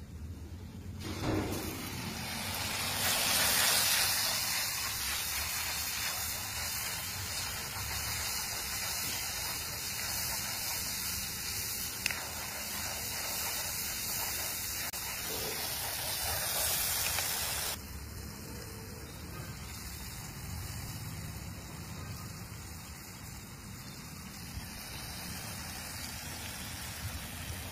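Tomato puree hitting hot oil and masala in a steel kadhai and sizzling: a hiss that starts suddenly about a second in, is strongest a few seconds later, and settles to a softer sizzle about two-thirds of the way through.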